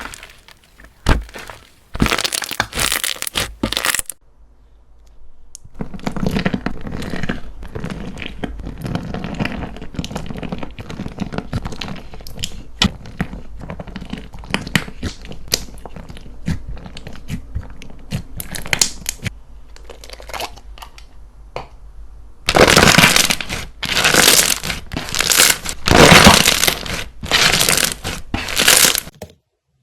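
Slime being squeezed, pressed and stretched by hand, giving runs of sticky crackles, pops and small clicks. Near the end come louder bursts of crackling, several in a row.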